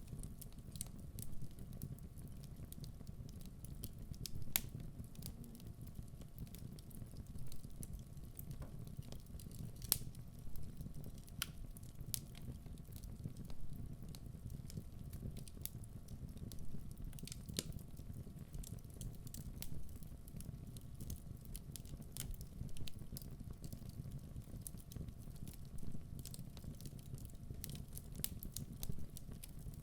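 Wood fire burning in a fireplace: a steady low rumble of the flames with irregular crackles and pops from the burning logs, the sharpest pops about four and a half and ten seconds in.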